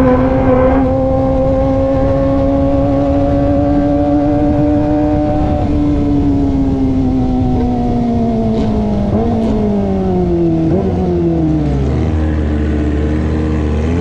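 Kawasaki ZX25R's inline-four engine through an aftermarket racing exhaust, held at steady high revs. From about halfway it winds down in pitch as the bike slows, with a couple of brief blips, and settles to a low note near the end, over wind noise.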